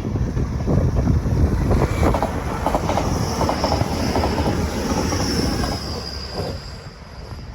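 A train passing through the station at speed without stopping: a loud rumble with rapid wheel clicks over the rail joints and a high whine, dying away near the end as it goes by.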